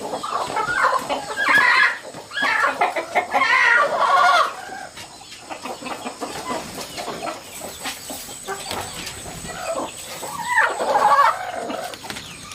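Chickens clucking and calling in three loud bouts, near the start, just after it and again late on, with quieter clucking in between.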